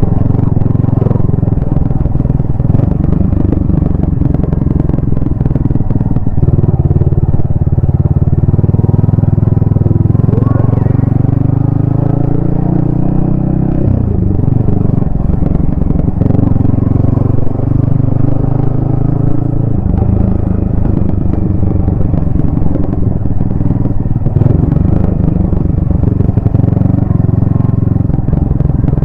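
Yamaha XSR155's 155 cc single-cylinder four-stroke engine running under way, heard from the rider's helmet. The engine note rises and falls several times around the middle as the throttle opens and closes.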